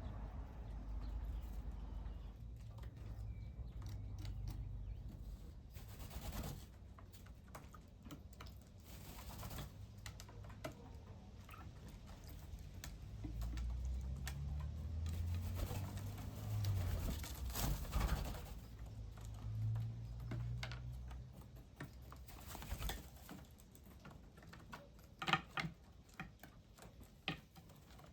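Birds feeding, with scattered sharp tapping and pecking clicks, a few of them louder near the end, over a low rumble.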